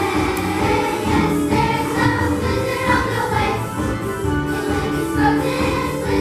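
A choir singing, the group holding and moving between sustained notes.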